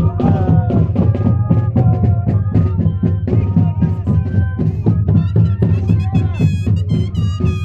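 Moseñada band music: moseño flutes playing a wavering melody in several voices over steady drum beats.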